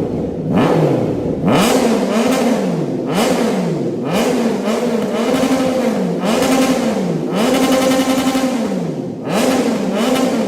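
Triumph Trident 660 inline-triple engine revved through an aftermarket full exhaust with a loop and short side exit. It goes as a series of about eight blips of the throttle, each rising and falling in pitch, with one held longer near the end.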